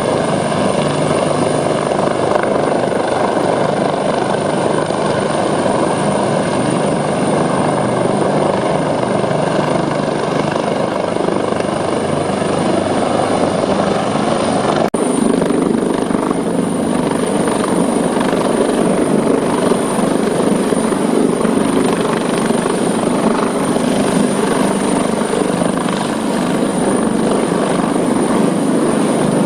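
Helicopter running loud and steady, with a thin high whine held above the dense rotor and engine noise. About halfway through the sound changes abruptly, as at an edit, and runs on.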